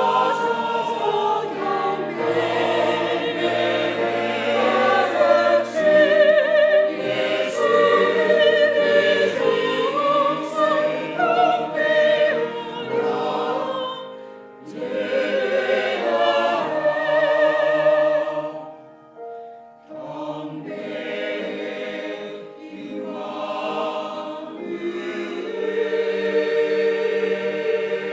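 Church choir singing a Christmas cantata with vibrato on held notes, pausing briefly twice before going on.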